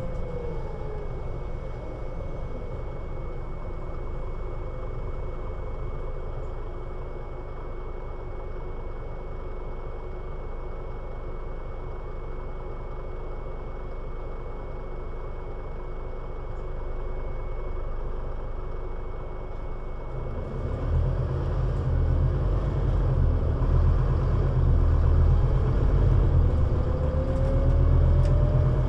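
Scania Citywide LFA bus (CN320UA 6x2/2) with a whine that falls in pitch in the first second or so as it slows. The engine then runs steadily at low revs for about twenty seconds. About twenty seconds in, the engine note grows deeper and louder as the bus pulls away, and a whine rises in pitch near the end as it gathers speed.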